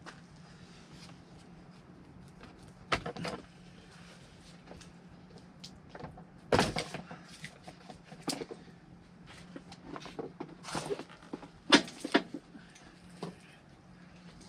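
Scattered clicks and knocks of plastic heater box parts being handled and unclipped, about half a dozen, the loudest a sharp knock about twelve seconds in, over a faint steady hum.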